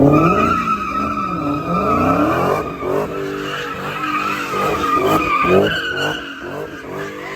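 A car spinning its tyres in a burnout: a steady tyre screech over the engine revving up and down, easing off near the end.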